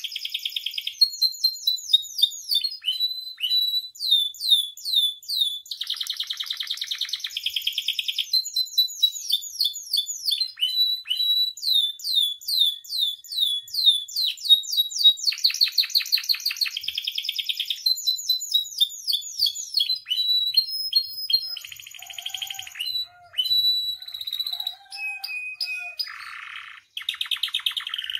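Domestic canary singing a long, varied song: fast runs of repeated down-slurred notes, buzzy rolls and rapid trills, with a few short breaks near the end.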